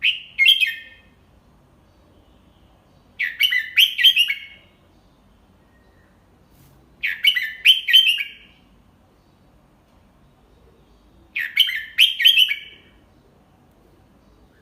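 Red-whiskered bulbul singing: four short phrases, each a quick run of a few clear whistled notes, coming about every four seconds. It is a tutor bird's song, slow and clear, for young bulbuls to copy.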